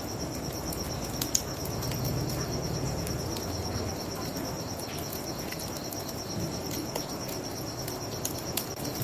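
Crickets chirping in a steady pulsing trill, with scattered crackles and pops from a wood bonfire, one sharp pop about a second and a half in, over the low rush of a river.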